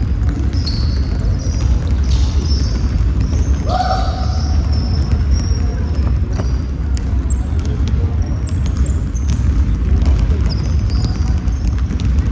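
Basketball game on an indoor court: sneakers squeaking on the floor again and again and the ball bouncing, over a steady low rumble. There is a short pitched call about four seconds in.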